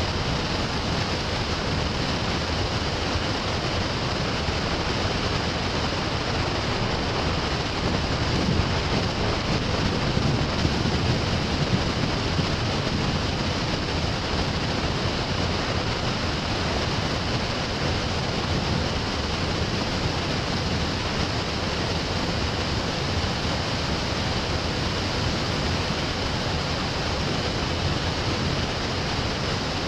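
Steady rushing noise that holds evenly, with a few slightly louder moments about ten seconds in.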